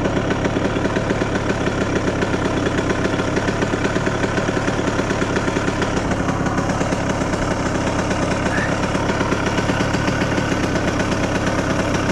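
Honda CR125R's two-stroke single-cylinder engine idling steadily.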